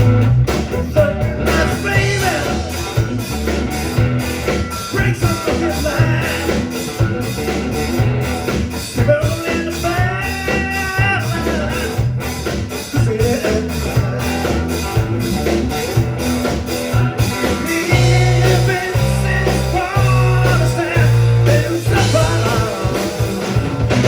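Live rock band playing a bluesy rock number, with guitar over bass and drums and a steady beat.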